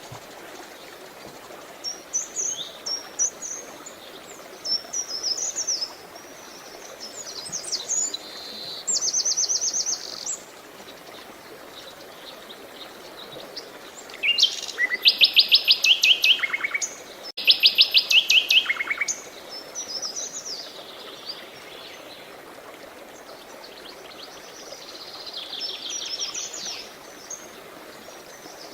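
Songbirds chirping and trilling over a steady rush of flowing water. The loudest part comes about halfway through: two fast trilled phrases, one right after the other.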